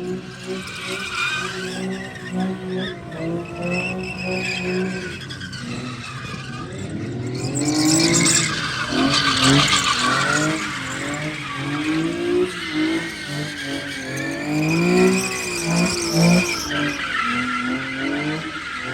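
A car engine revving up and down over and over while its tires squeal and skid. The tire noise is loudest from about eight to eleven seconds in.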